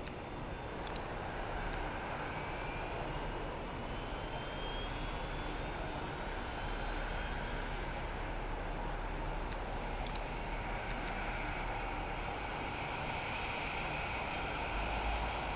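Jet airliner engines running, a steady rushing noise with a faint whine that glides up in pitch early on.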